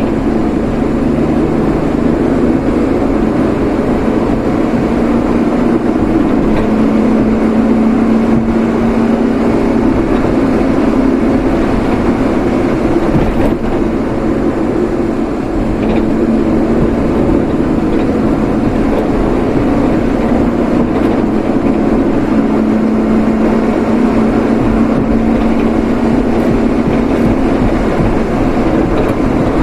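A vehicle being driven: steady road and engine noise with an even low drone that holds throughout.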